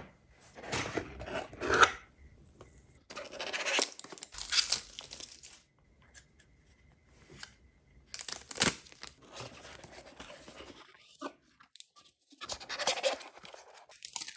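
Product packaging being torn open and handled: four bursts of tearing and rustling, with one sharp snap a little past the middle.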